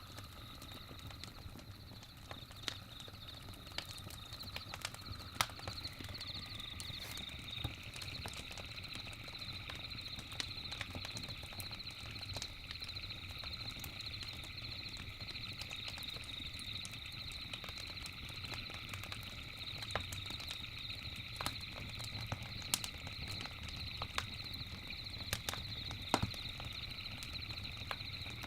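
Campfire crackling, with irregular sharp pops and snaps over a low steady rumble. A steady high-pitched drone of several tones runs underneath, growing stronger about six seconds in.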